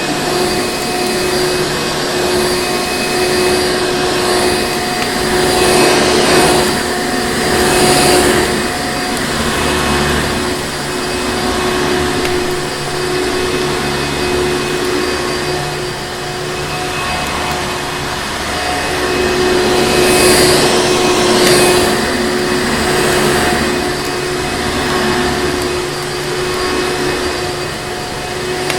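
Vacuum cleaner running continuously: a steady rushing hum with a constant motor whine, swelling louder a couple of times.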